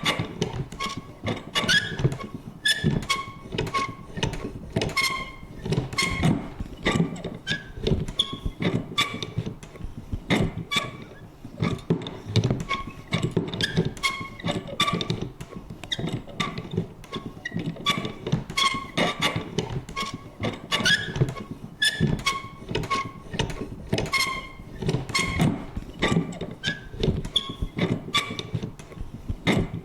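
Vintage paper punch worked again and again: a steady run of clunks and clicks, about two or three a second, mixed with short squeaky creaks.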